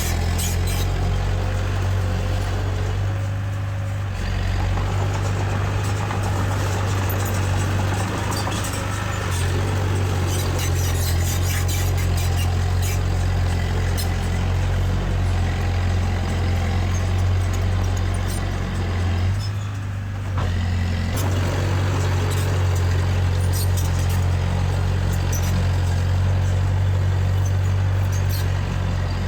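Diesel engine of heavy earthmoving machinery running steadily with a strong low hum. It eases off briefly twice, a few seconds in and again about two-thirds of the way through. Scattered clanks and rattles sound over it.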